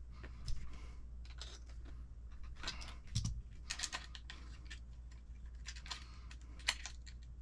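Irregular clicks, taps and short scrapes of small metal parts and hand tools as a metal rod on an RC10T truck chassis is bent outward and refitted to clear the steering, with a dull thump about three seconds in.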